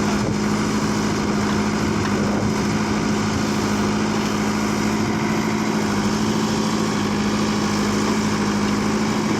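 Tractor diesel engine running at a steady speed, with an even, unchanging note.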